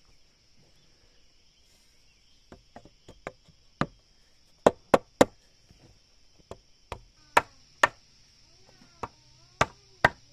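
A tool striking wood in a run of about a dozen sharp, irregular blows, starting a couple of seconds in. Insects hum steadily throughout.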